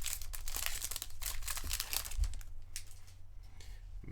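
Foil wrapper of a 2023 Bowman baseball card pack crinkling as it is torn open, dense crackling for about two and a half seconds, then fainter rustling.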